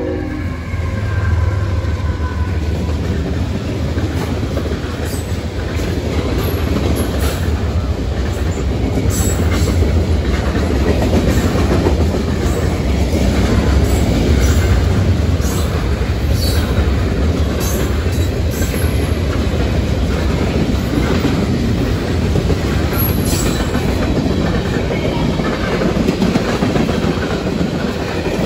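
CN diesel freight train passing close by at speed, its horn's last note falling in pitch and dying away in the first second or two. After that come a heavy rumble and the steady clickety-clack of freight-car wheels over the rail joints, with brief high wheel squeaks here and there.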